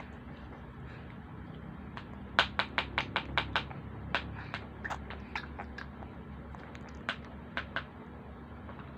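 A quick run of about eight sharp taps or clicks, then scattered single clicks, over a low steady background hum.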